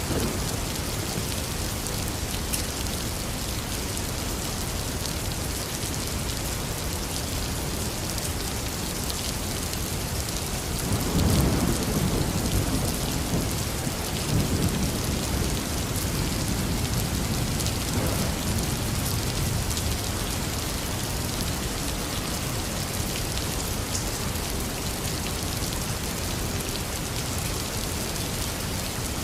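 Heavy rain falling steadily, with a long roll of thunder that rumbles up about a third of the way in and fades away over several seconds.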